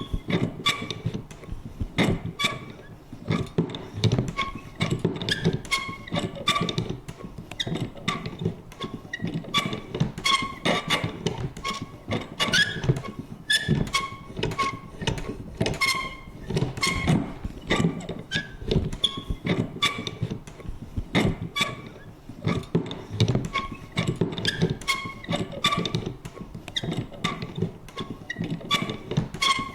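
Vintage paper punch working over and over: a dense, irregular run of clicks and thunks, several a second, mixed with short squeaky creaks of its mechanism.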